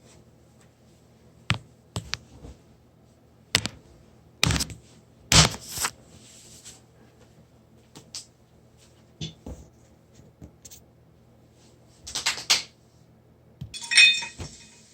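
Scattered sharp knocks and clicks at irregular intervals over a faint steady hum, with a short hissy rattling burst near the end.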